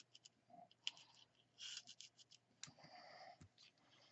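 Faint rustling and scattered light clicks of paper and card being handled and positioned on a desk, with a couple of brief scratchy rustles in the middle.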